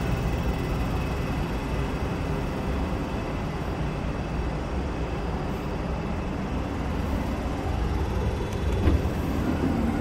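Steady hum and low rumble of a double-decker passenger train standing at the platform, waiting to depart. There is a single short knock about nine seconds in.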